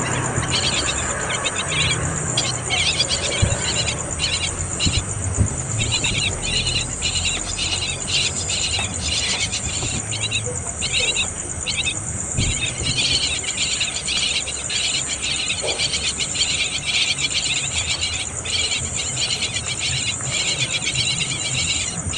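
Insect chorus: a steady high drone with dense chirring that comes and goes in short, irregular bursts.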